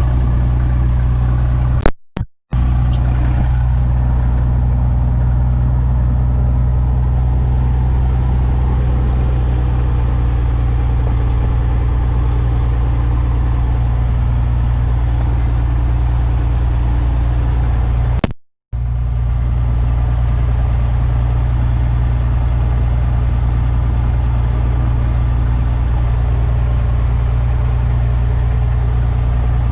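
Cessna O-1 Bird Dog's piston engine droning steadily and loudly at an unchanging pitch. The sound cuts out abruptly for a split second twice, about two seconds in and about eighteen seconds in.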